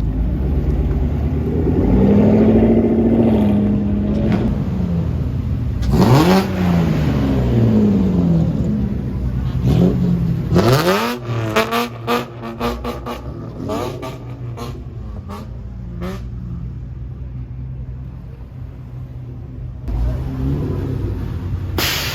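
Modified car's engine being free-revved: a held rev about two seconds in, two sharp rises and drops around six and ten seconds, then a rapid string of short throttle blips that trail off, and another rev near the end.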